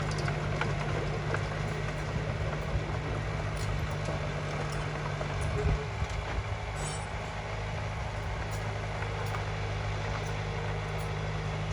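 Bulldozer's diesel engine running steadily under load, with scattered light clicks and one brief louder knock about halfway through.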